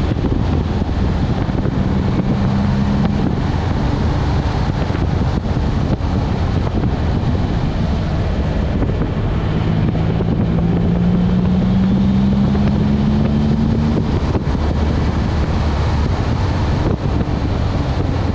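Nissan 350Z twin-turbo 3.5-litre V6 running under way, with heavy wind noise over the microphone. The engine note climbs steadily from about halfway through, then drops off suddenly.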